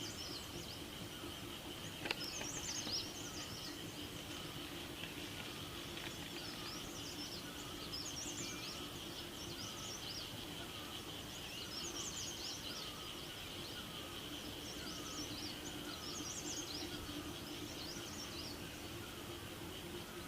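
Evening forest ambience: a bird repeats a short, high twittering song phrase every two seconds or so over a steady, high insect drone and a low steady hum. A lower note falls in pitch about twice a second, and a single sharp click comes about two seconds in.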